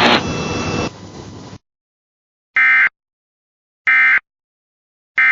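Radio hiss that steps down and cuts off about a second and a half in. After a pause come three short, identical warbling data bursts, evenly spaced about a second and a half apart: the NOAA Weather Radio SAME end-of-message tones that close the alert broadcast.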